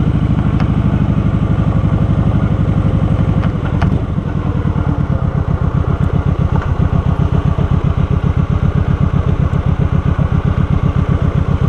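Motorcycle engine running at low speed with a steady, even pulse. It eases off about four seconds in and settles into a pulsing idle.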